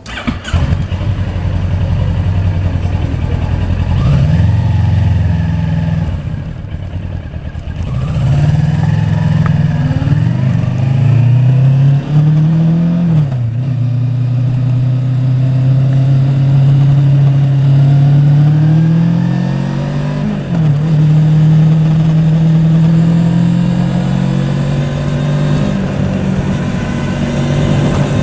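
Yamaha Tracer 700's parallel-twin engine running while the motorcycle is ridden. The engine note climbs under acceleration and drops sharply at gear changes, about thirteen seconds in and again about twenty seconds in.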